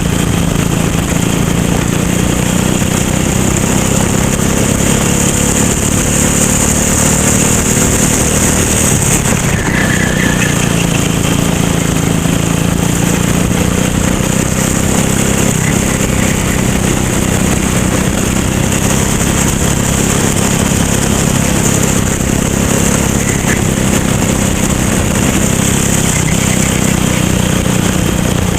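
Racing kart engine running hard on track, its note held fairly steady, easing off briefly about a third of the way through before picking up again.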